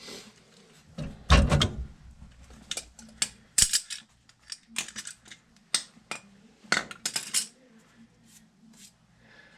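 Metal tools and fittings clinking and knocking at a furnace gas valve being worked on, with one heavier knock about a second in and scattered clicks after it.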